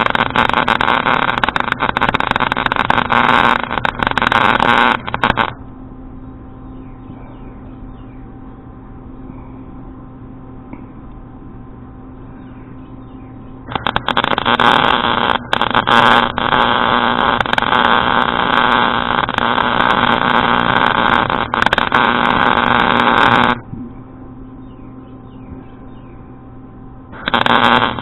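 Wire-feed welder laying beads, three crackling arc runs: about 5 seconds at the start, about 10 seconds in the middle and a short one at the end. A steady machine hum carries on between them. The welder thinks his wire speed is set too fast.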